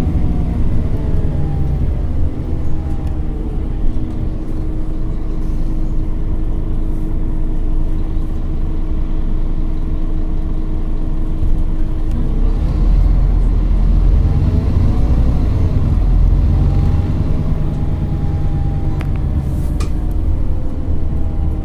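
Scania OmniCity city bus heard from inside while driving: a steady diesel rumble with a drivetrain whine that falls at the start, rises again about halfway through as the bus pulls away, then eases off. A couple of faint clicks near the end.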